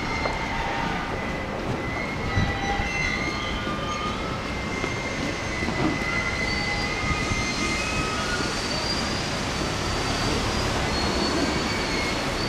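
A train running on rails with a steady rumble, its wheels squealing in thin high tones that come and go.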